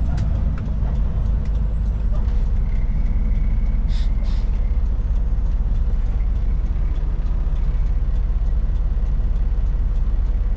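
Cummins-powered Kenworth K200 cabover truck engine running steadily under way, heard inside the cab as a low drone with road noise. Two brief hisses come about four seconds in.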